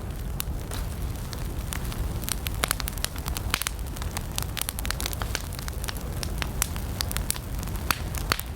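Wood campfire burning, with frequent irregular sharp crackles and pops over a steady low rumble.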